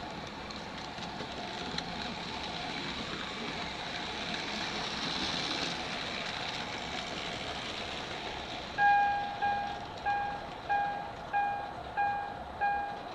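H0-scale model train running on the layout's track, a steady rolling noise. About nine seconds in, a clear ringing note starts, struck again about every two-thirds of a second and dying away each time.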